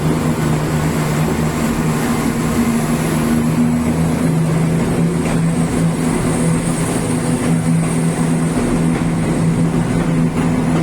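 A train's diesel engine idling at a station, a steady low hum.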